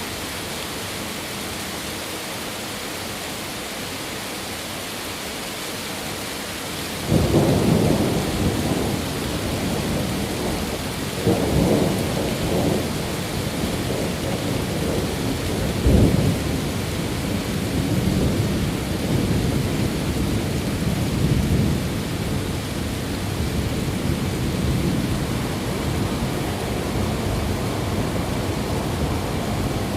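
Steady rain hiss, then a thunderstorm's thunder breaks in suddenly about a quarter of the way through and rumbles on, swelling again a few seconds later, with one sharp crack near the middle.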